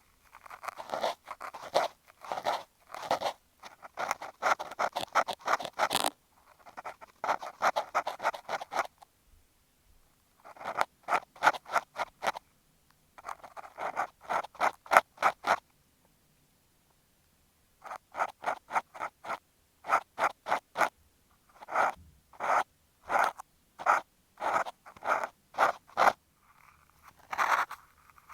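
Cotton swab rubbing and scratching across an earphone microphone as simulated ear cleaning. The quick strokes come in runs of a few seconds, with two short pauses.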